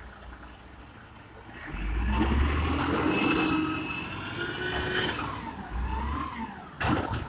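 Diesel engine of a 1995 White GMC automated side-loader garbage truck revs up about two seconds in and runs hard for a few seconds, its pitch sagging and rising again, with a sharp metallic clatter near the end.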